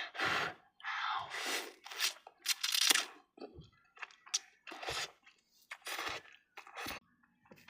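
Close-up eating sounds from a mouthful of ramen: a string of short, irregular crunchy, noisy chewing sounds with brief pauses between them.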